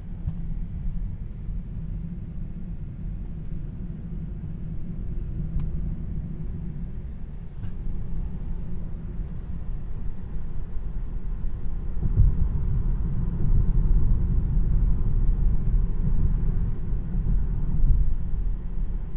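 Low, steady road and tyre rumble inside the cabin of a moving 2026 Tesla Model 3 Premium RWD, getting louder about two-thirds of the way through.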